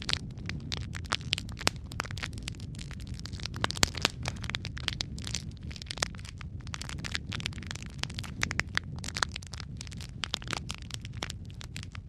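Wood fire crackling in a fireplace: irregular sharp pops and snaps over a low steady rumble of the flames, with a couple of louder pops about four seconds in.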